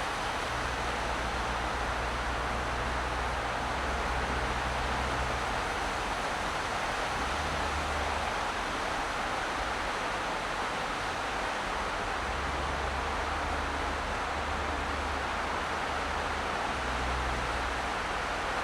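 Steady tyre and road noise from a car driving, an even hiss, with a low engine rumble that swells and fades several times.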